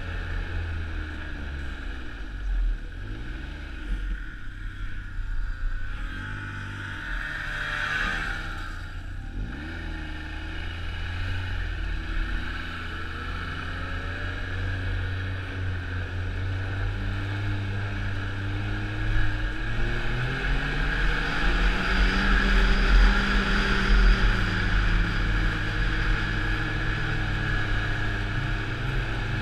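Snowmobile engine running under way, its pitch rising and falling with the throttle, and getting louder and higher about two-thirds of the way through.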